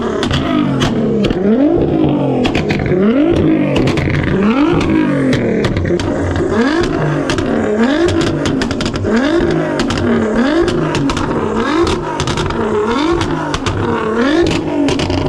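A car engine revved over and over, about once every second and a bit, each rev climbing in pitch and then falling back, with sharp pops throughout.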